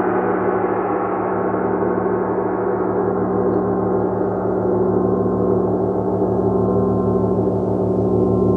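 Gong sounding in a continuous wash of many overlapping steady tones, with a rhythmic throbbing in its deepest tones. The highest overtones slowly die away and no fresh strike stands out.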